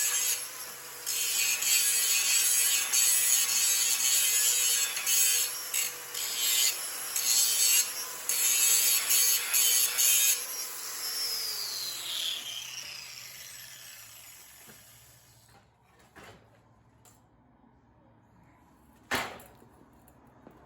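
Angle grinder grinding the steel splitting wedge of a log splitter in a series of bursts, re-profiling and sharpening its edge. About ten seconds in it is switched off and winds down with a falling whine. A single sharp knock near the end.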